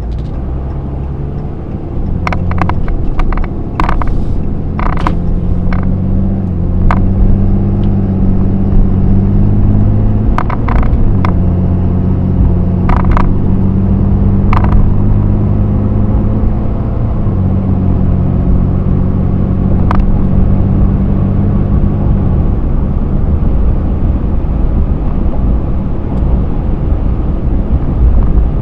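Engine of a 2013 Ram 3500 pickup accelerating and running through the automatic transmission's gears, heard from inside the cab. The engine's pitch drops at upshifts about ten, seventeen and twenty-two seconds in. Scattered sharp clicks sound over it in the first half.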